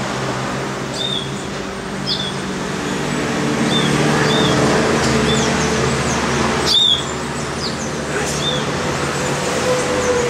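A small bird calling with short, high chirps repeated about once a second over steady city traffic noise. There is a brief knock about two thirds of the way through.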